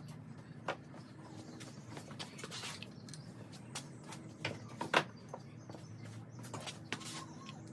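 Irregular clicks and knocks of hand tools and loose metal parts as the rocker arms and pushrods come off a V8's cylinder heads, with one sharper knock about five seconds in. A faint steady hum runs underneath.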